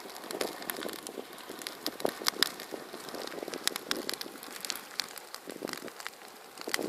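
Large bonfire burning: irregular sharp crackles and pops over a steady rushing noise of the flames.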